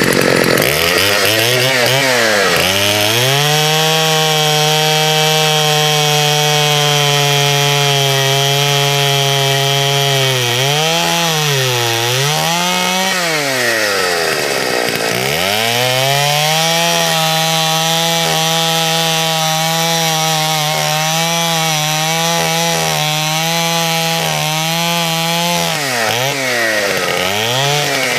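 Vintage Partner two-stroke chainsaw cutting through a tree trunk at the stump, held at steady high revs through the cut. About halfway through, the engine drops off and revs back up several times before settling into the cut again, and it revs up and down again near the end.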